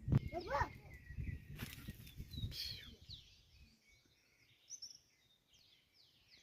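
Small birds chirping, with short high calls and quick downward slides that come most thickly in the second half. A thump at the start and low rumbling noise run under the first half, then stop.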